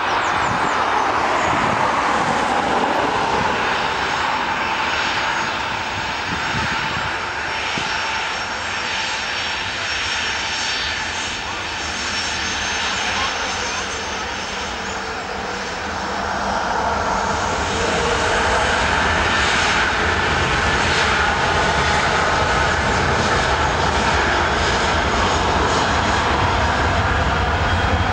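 Boeing 737-800's CFM56-7B turbofan jet engines running at takeoff power, a loud steady jet noise. It eases a little midway, then grows louder again with a deepening low rumble over the last ten seconds.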